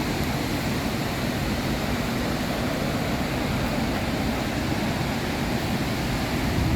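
Victoria Falls' falling water making a steady, loud rush of noise.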